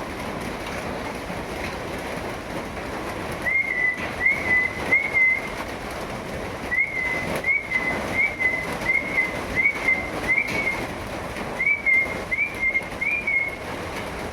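A bird's whistled call repeated in three runs of short, rising-then-level notes, about one and a half a second, over a steady hiss of rain.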